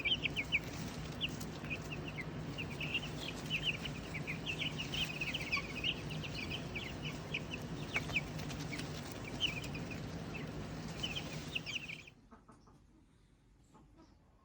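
A group of chickens chirping and peeping: many short high calls, several a second, over a steady low hum. The sound cuts off abruptly about twelve seconds in.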